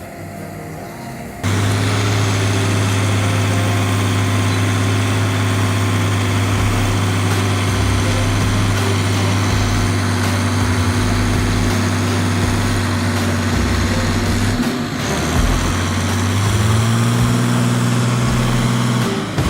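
Heavy tractor diesel engine working under load as it pulls a stuck machine from mud. It starts abruptly about a second and a half in and holds a steady drone, then revs up to a higher pitch near the end.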